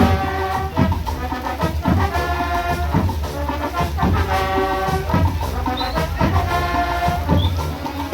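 Marching band playing: brass instruments sound short held chords in a phrase that repeats about every two seconds, over steady drum beats.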